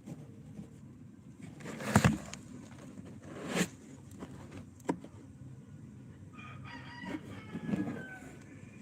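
A few sudden knocks or bumps, then a rooster crowing once for about two seconds near the end.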